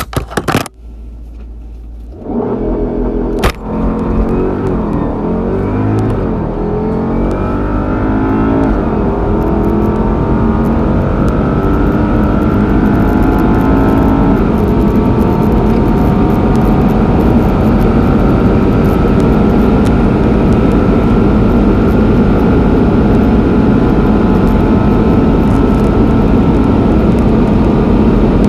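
Porsche Panamera Turbo S E-Hybrid's twin-turbo V8 launching hard from a standstill with launch control about two seconds in. It accelerates through the gears, its pitch climbing and dropping back at each upshift, then settles into a steady loud drone with road and wind noise at high speed.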